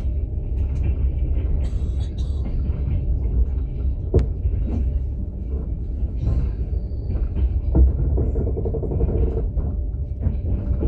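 Passenger train carriage in motion, heard from inside the sleeper car: a steady low rumble of wheels on the track, with a couple of short sharp knocks, about four seconds in and near eight seconds.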